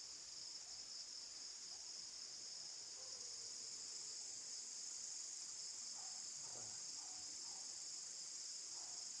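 Crickets chirring in a steady, continuous high-pitched chorus.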